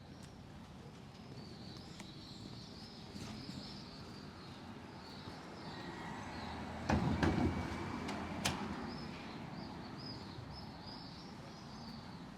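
Outdoor street ambience with small birds chirping on and off. About seven seconds in there is a short, loud burst of knocking clatter, and a sharp single click follows about a second later.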